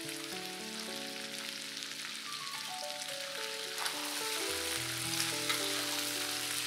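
Chicken wings, ginger and onions sizzling in sesame oil in a wok, the steady hiss of stir-frying, with a metal spatula turning them and clicking on the wok now and then. Soft background music of held, slowly changing notes plays underneath.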